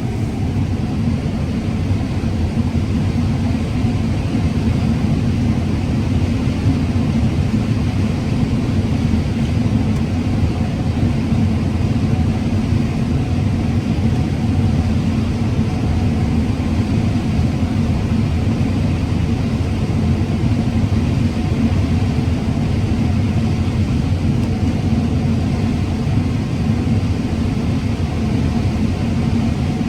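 Combine harvester running steadily while cutting corn, a constant low drone with no change in pitch.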